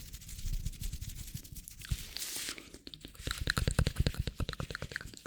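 Hands rubbing and crinkling close to the microphone for ASMR, with a short hiss about two seconds in and a faster run of crackles from about three seconds.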